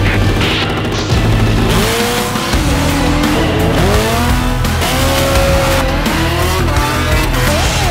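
Drag-racing motorcycle engines revving and accelerating hard, several rises and falls in pitch one after another from about two seconds in, over background music with a steady beat.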